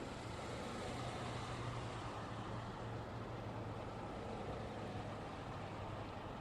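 Road traffic: a steady wash of tyre and engine noise from passing vehicles, with a low engine hum that swells slightly in the first couple of seconds.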